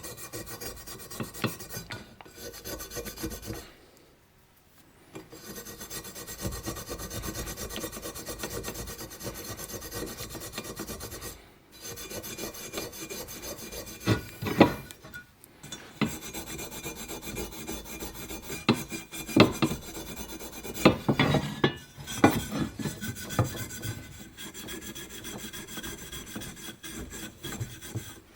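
Fine steel wool being scrubbed and scraped back and forth over the gasket mating surfaces of an aluminium chainsaw crankcase half, a continuous scratchy rubbing with a few short pauses, to remove caked-on old gasket material.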